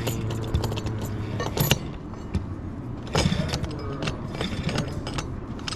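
Metal transmission parts and hand tools clinking and knocking as they are handled, a series of short sharp clicks with a denser clatter about three seconds in.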